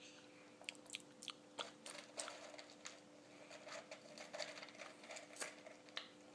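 Faint crunching of hard cereal as a toddler chews, with small irregular clicks and crackles scattered throughout as his fingers rummage in a plastic snack cup. A faint steady hum lies underneath.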